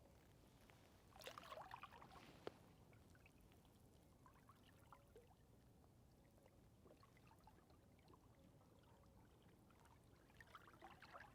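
Near silence, with faint trickling water about a second in and again near the end.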